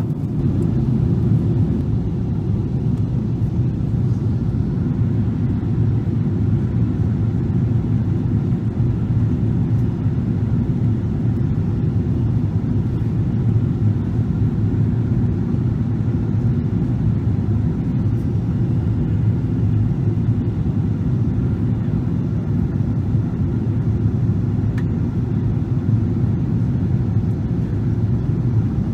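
Boeing 777-300 cabin noise during descent: a steady low rumble of the engines and airflow heard from inside the passenger cabin, unchanging throughout.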